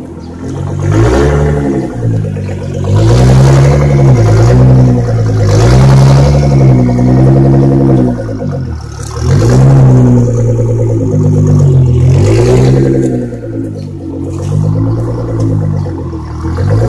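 Nissan GT-R R35's twin-turbo VR38DETT V6 revved repeatedly with the car standing still: a series of about six revs that rise and fall in pitch, several held high for a couple of seconds before dropping back toward idle.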